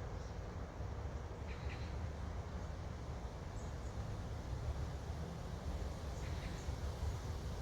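Wind blowing steadily against the microphone, with a bird calling faintly twice, about a second and a half in and again about six seconds in.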